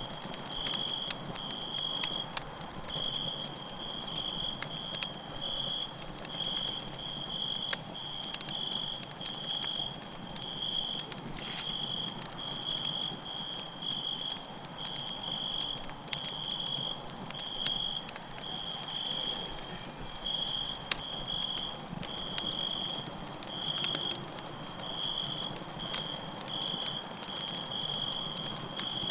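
Campfire crackling and popping with scattered sharp snaps, over crickets chirping steadily in a high, even pulse of about two chirps a second.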